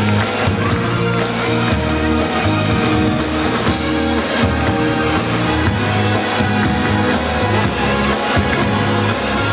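Live pop band playing a song at a steady, full loudness, with a moving bass line and no clear lead vocal.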